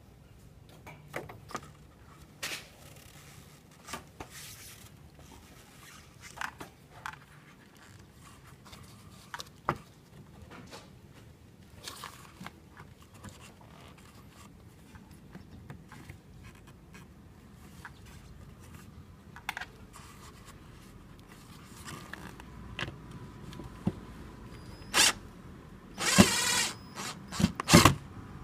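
Scattered clicks, knocks and scrapes of an air-conditioner pipe duct cover being handled, with louder scrapes near the end.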